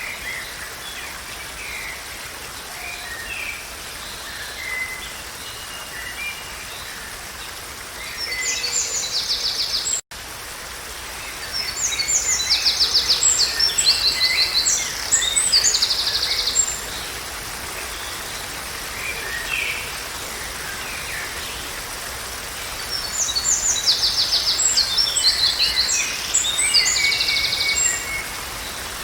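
Songbirds singing over a steady rushing background of water: scattered chirps throughout, with bursts of fast, high trilling songs that come and go. The sound drops out for an instant about ten seconds in.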